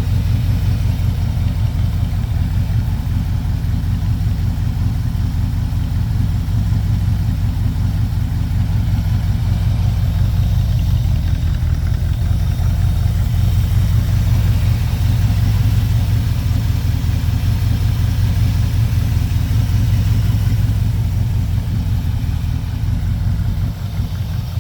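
1965 Chevrolet C10 pickup's engine idling steadily.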